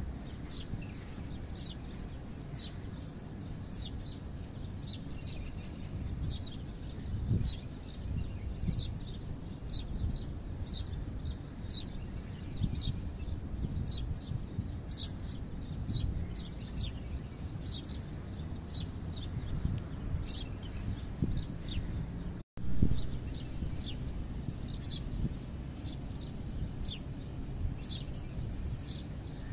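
A small bird chirping over and over, short high chirps that slide downward, more than one a second, over a low rumble. About three-quarters of the way in the sound breaks off briefly and comes back with a thump.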